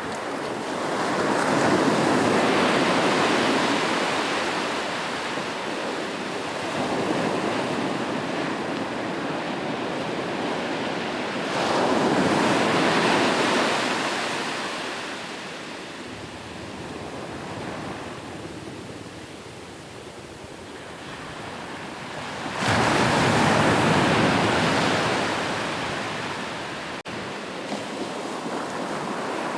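Sea waves breaking on a shore, a steady rush of surf that swells and fades. Three big waves surge in, about ten seconds apart; the last one rises sharply.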